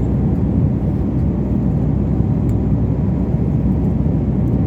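Steady low rumble of jet airliner cabin noise in cruise flight, heard from inside the cabin.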